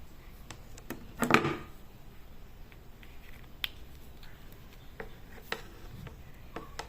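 Light clicks and taps of small objects being handled, with one short louder clatter about a second in.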